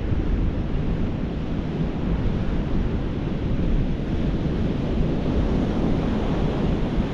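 Wind buffeting the microphone over the steady rush of rough surf breaking on the beach, a continuous low rumbling noise.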